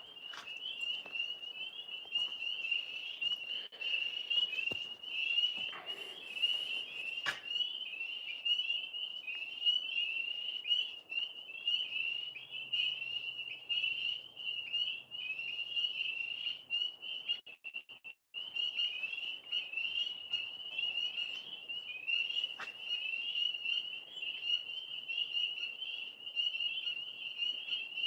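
Dense chorus of many frogs calling continuously in rapid, high-pitched trills, cutting out briefly about eighteen seconds in.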